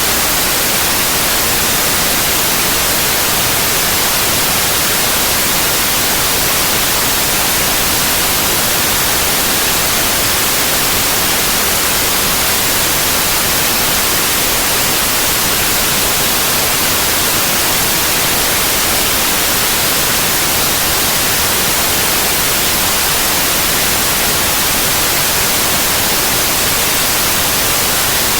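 Synthetic white noise: a steady, unbroken hiss spread evenly across the whole range, brightest in the highs.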